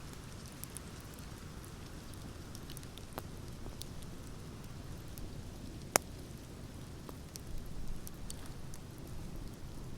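Wood fire crackling in a fireplace: a low steady rumble with scattered small crackles and one sharp, loud pop about six seconds in.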